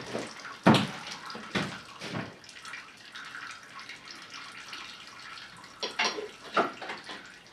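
Liquid trickling steadily, with several sharp clicks and knocks: three in the first couple of seconds and two more near the end.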